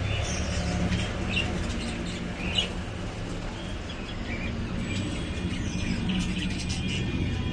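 Small birds chirping in short, scattered calls, a cluster in the first couple of seconds and more near the end, over a steady low background hum.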